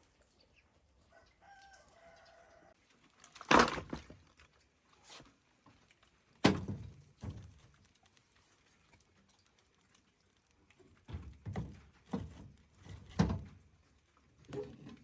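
A short faint chicken call about two seconds in, then a series of heavy knocks: one about three and a half seconds in, another about six and a half seconds in, and four more close together near the end.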